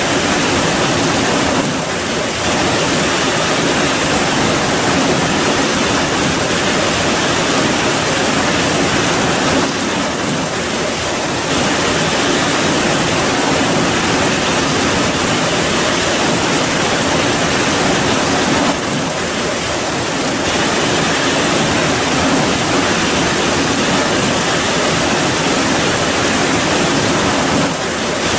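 Steady heavy rain: a dense, even hiss that dips slightly in level every eight or nine seconds.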